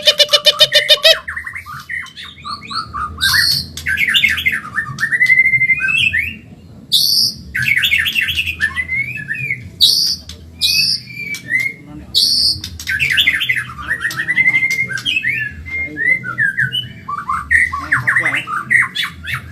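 White-rumped shama (murai batu, Medan type) singing a fast, varied song of trills, whistled glides and harsh rattling notes, in bursts of phrases broken by short pauses; a rapid buzzy rattle opens it.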